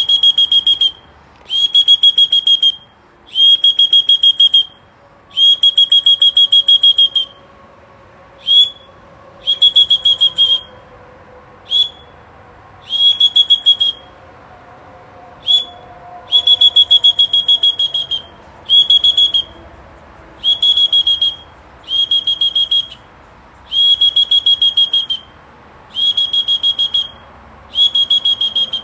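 A whistle blown in repeated high-pitched trilling blasts of about one to two seconds each, with a few short pips between them.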